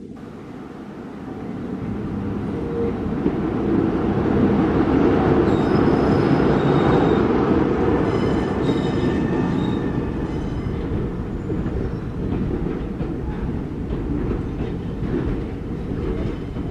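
Train running on rails, growing louder over the first few seconds and then running steadily, with brief high-pitched wheel squeals in the middle.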